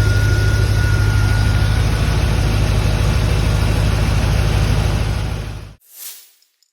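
1993 C4 Corvette's V8 engine idling steadily while its cooling system is being burped of air, with a thin steady whine over it for the first two seconds. The engine sound fades and cuts off suddenly a little before the end, followed by a short swish.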